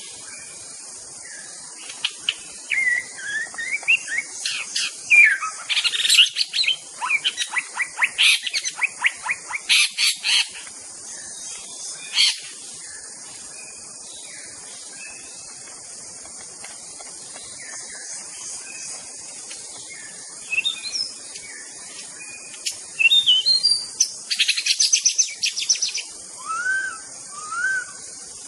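White-rumped shama (murai batu) singing in bursts of varied whistles, rapid trills and rising notes, with a pause of several seconds in the middle. A steady high hiss runs underneath.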